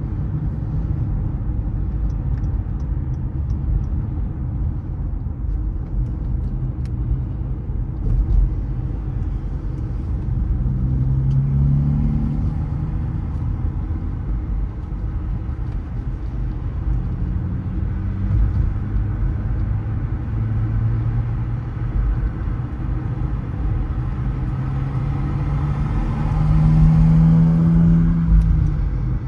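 Car driving on city roads: a steady low road and engine rumble. The engine note rises as the car speeds up, once about a third of the way in and again, louder, near the end.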